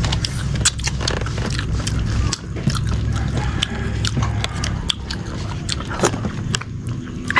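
Close-up eating sounds: someone chewing and smacking on a mouthful of breadfruit stewed in coconut milk, many small wet clicks in irregular succession. A low steady hum sits underneath and drops off about two and a half seconds in.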